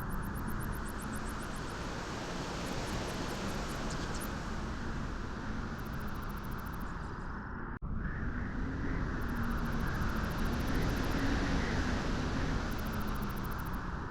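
Wind blowing steadily at a beach, a continuous even rushing noise that breaks off for an instant about eight seconds in.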